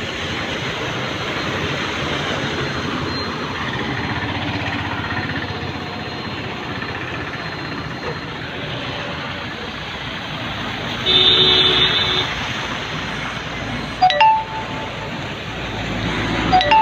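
Steady hiss of heavy rain and traffic on a flooded highway. A vehicle horn sounds for a little over a second past the middle, followed by two short, sharp toots near the end.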